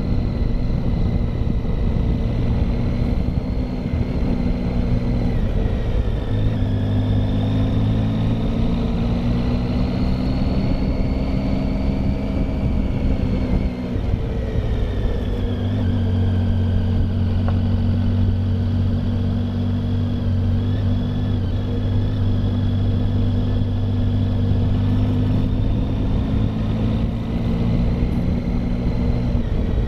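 Triumph Tiger motorcycle engine running steadily under way uphill, with wind and road rush; the engine note shifts about 6 and 15 seconds in.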